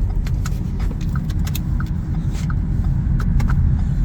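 Car in motion heard from inside the cabin: a steady low engine and road rumble, with a light tick repeating about every two-thirds of a second.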